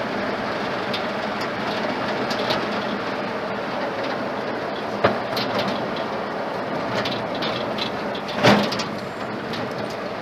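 Old truck on the move with its freshly built Ford flathead engine, which is being run in, heard from inside the cab as a steady rumble of engine and road noise. There is a sharp knock about halfway through and a louder jolt or rattle near the end.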